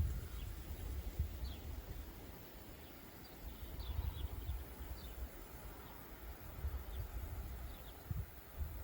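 Strong wind buffeting the microphone as a low, gusting rumble that eases off around the middle and picks up again near the end, with scattered short high chirps from small animals.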